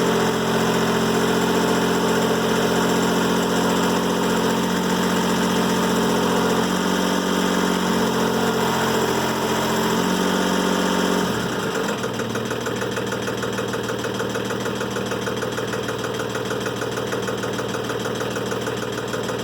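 Timberking 1400 band sawmill's engine running steadily while the blade cuts a black locust log. About eleven seconds in, the pitch drops and the engine settles to a lower, steady idle as the cut ends.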